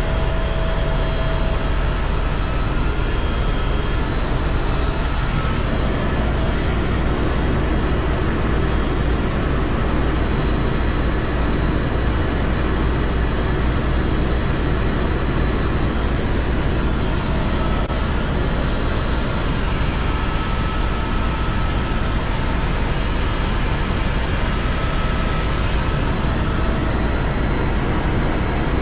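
Tour helicopter's engine and rotor noise in flight: a steady, deep drone with faint thin whines over it.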